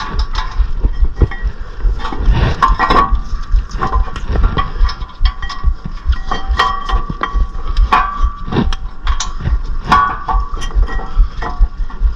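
Irregular metallic clinks and knocks of sockets and hand tools being handled and used on the brake parts, some strikes ringing briefly.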